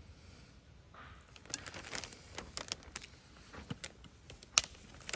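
Irregular small clicks and crinkling of food packaging and containers being handled, with one sharp loud click about four and a half seconds in.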